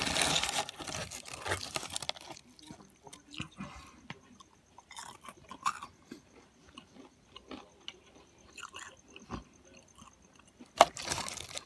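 A person chewing and eating food, with small mouth clicks and bites; a louder rustling noise in the first couple of seconds and a sharp knock near the end.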